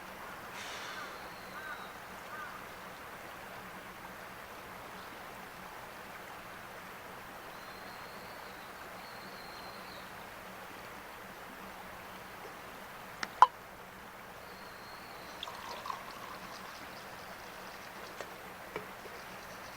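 Steady rushing of flowing stream water. A single sharp click or knock about thirteen seconds in is the loudest sound, with a few fainter clicks near the end.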